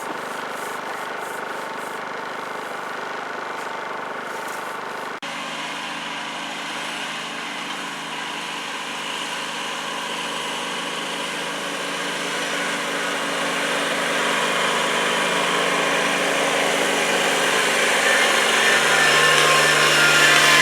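Engine running steadily with a hum of several fixed tones. The sound changes abruptly about five seconds in, then grows gradually louder toward the end.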